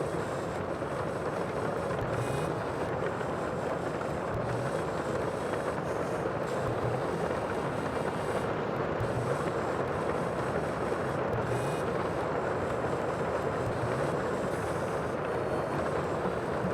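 Sea ambience: a steady, even rushing of water and surf without distinct wave breaks.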